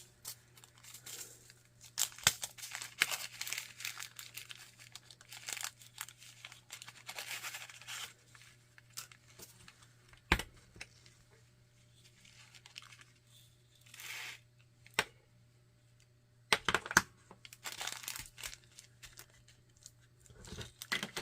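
Small plastic packets and zip bags of diamond painting drills being handled and opened: irregular bursts of crinkling and rustling plastic, with a few sharp clicks, the loudest about ten seconds in. A faint steady hum sits underneath.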